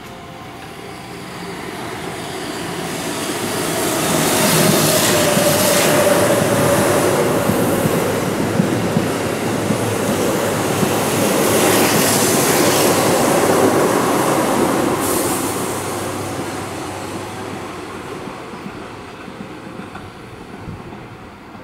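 Keihan 8000-series electric express train running through the station at speed, without stopping. The rumble and clatter of wheels on rail swell as it approaches, stay loud for about ten seconds while the carriages go by, then fade away.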